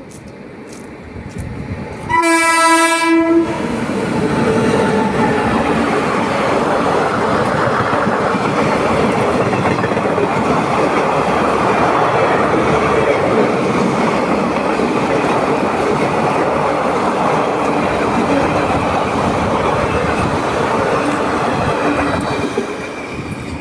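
Indian Railways passenger train: a single horn blast about two seconds in, lasting just over a second, then the loud steady rumble and clatter of the coaches on the track, easing off near the end.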